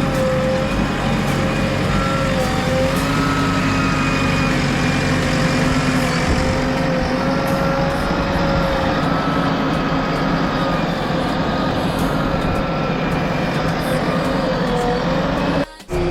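Diesel engine of a JCB backhoe loader running steadily under working load, its pitch rising and falling slightly as it works. The sound drops out briefly near the end.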